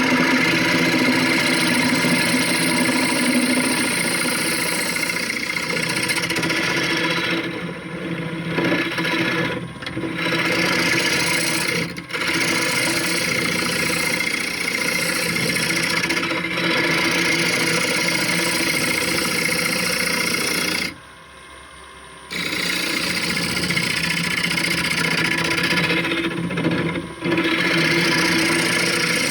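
Wood lathe running with a steady hum while a tool works the spinning wooden gear-knob blank. The working sound dips a few times and cuts out for about a second a little past twenty seconds in, then resumes.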